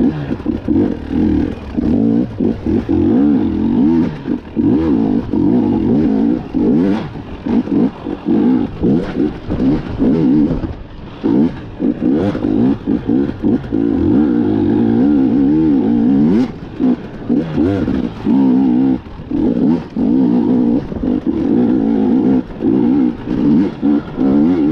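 KTM 250 EXC two-stroke dirt bike engine being ridden hard, revving up and down as the throttle is opened and shut over and over. Short knocks and clatter from the bike are mixed in throughout.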